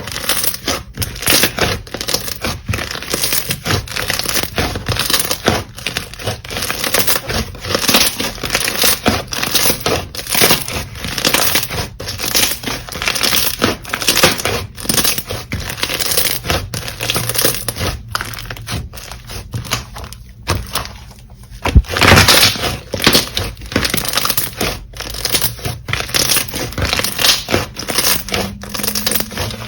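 Slime being squeezed, pressed and stretched by hand, giving a dense, continuous run of crackling clicks and pops, with a brief lull about two-thirds of the way through.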